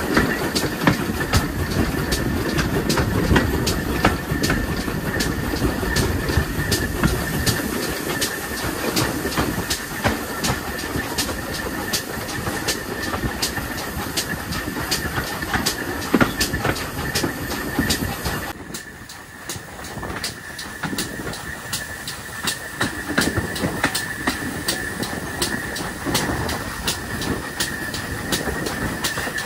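Steam-hauled train running along the track, with a steady rattle and regular clicking of wheels over the rail joints and a thin, steady high whine. The sound dips briefly about two-thirds of the way through.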